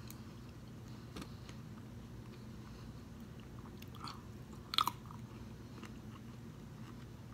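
A person bites into a green grape, giving one sharp, wet crunch almost five seconds in. Softer chewing and small mouth clicks come before it, over a faint low hum.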